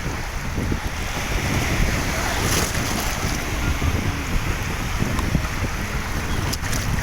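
Wind buffeting the microphone in gusts, over a steady rushing noise.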